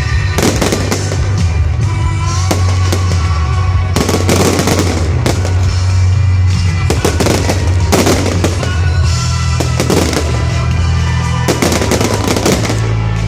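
Fireworks display: repeated shell bursts and crackling over loud show-tune music played through a sound system, with a heavy steady bass underneath.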